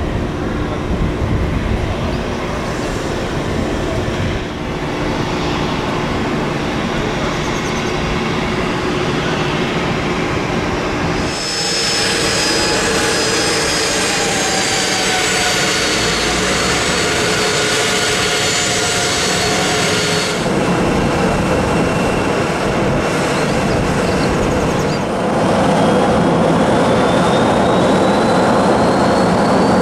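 Jet aircraft engines running loudly with a high steady whine, the sound changing abruptly twice; over the last few seconds a whine rises in pitch.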